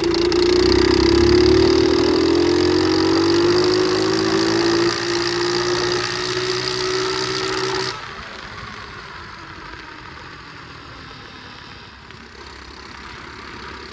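Pit bike engine running under throttle while riding, its pitch dipping slightly and then climbing slowly. About eight seconds in the sound drops off suddenly to a quieter, steady running sound.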